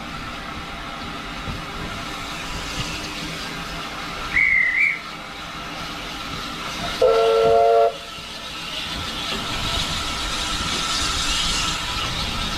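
Steam train running, with a brief high whistle about four seconds in, then one blast of the steam locomotive's whistle, about a second long, around seven seconds in. A hiss grows louder near the end.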